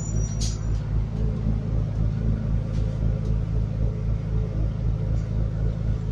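Scania N280UD biogas double-decker bus engine running steadily with a low rumble, heard from inside the bus. There is one brief click about half a second in.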